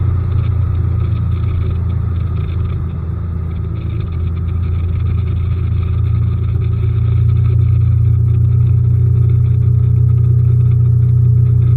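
Bass boat's newly repowered outboard motor running, a steady low drone that eases slightly about three seconds in, then builds and holds louder from about seven seconds in.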